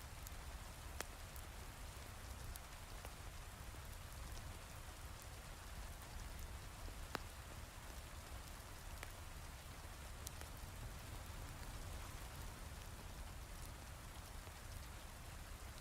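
Steady hiss of heavy rain, with a handful of sharp pops from a crackling wood fire scattered through it.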